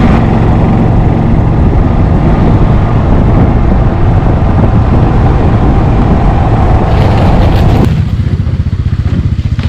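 Car engine and road noise heard from inside a moving car. About eight seconds in it drops to a quieter, evenly pulsing low rumble as the car slows.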